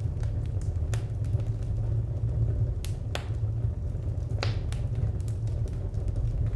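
Wood fire crackling: scattered sharp pops and ticks, a few louder ones about one, three and four and a half seconds in, over a steady low rumble.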